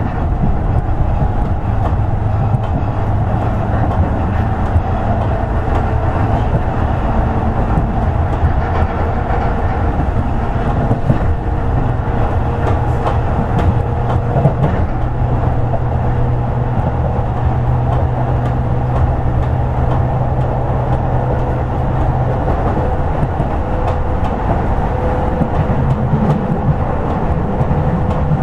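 Running sound of a Toei 10-300 series electric train at speed: a steady rumble of wheels on rail with a low electric motor hum, and one hum line ending about 22 seconds in.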